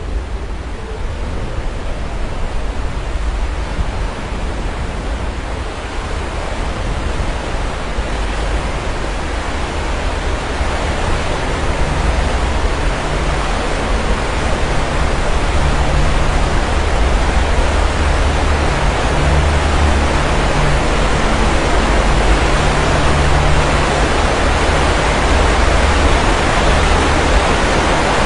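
Sea surf washing onto the shore in a continuous rush of noise, swelling louder over the first half and then holding.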